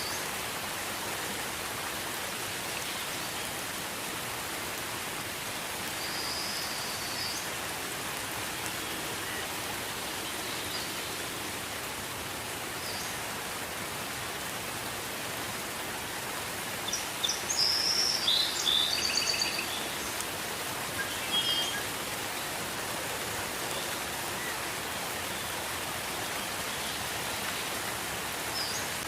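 Steady gentle rain falling, an even hiss, with short high-pitched bird chirps now and then, most of them in a cluster a little past the middle.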